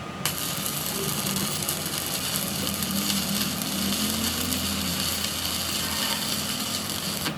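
A power tool running steadily with a high hiss, starting suddenly just after the start and cutting off near the end.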